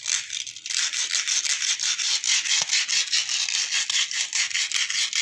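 Emery paper rubbed quickly back and forth over the rotor of an air cooler's submersible water pump: a steady run of fast, even scrubbing strokes that scours hard-water scale off the rotor.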